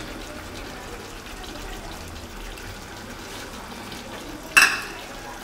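Chicken, boiled potatoes and yogurt sizzling steadily in a hot pot, with a single sharp knock about four and a half seconds in.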